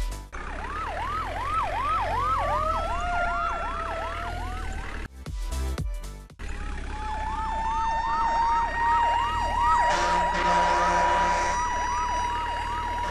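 Electronic siren sounding a fast repeating rising yelp, about three sweeps a second, broken off briefly partway through and then resuming. A second pitched tone sounds over it for about a second and a half near the end.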